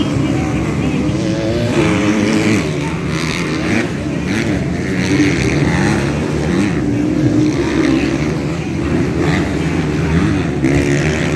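Several motocross bikes' engines revving on the track, their pitch rising and falling over and over as riders open and close the throttle.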